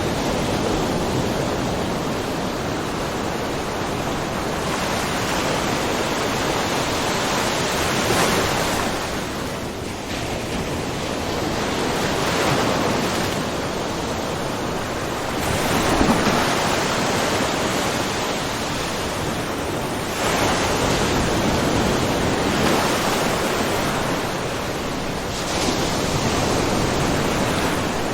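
Small ocean waves splashing and washing over a rocky mussel cove shore, a steady wash that swells with each wave every few seconds.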